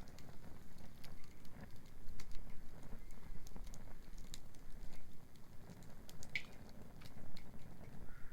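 Wood bonfire crackling, with irregular small pops and snaps and one sharper snap about six seconds in, over a steady low rumble.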